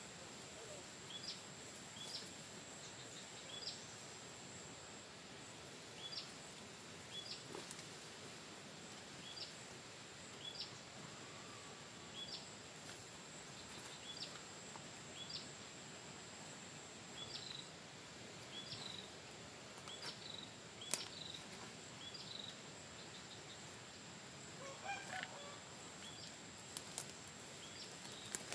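A bird repeating a short high call about once a second in the undergrowth, with a rooster crowing faintly once near the end. A few sharp snaps of twigs and brush underfoot.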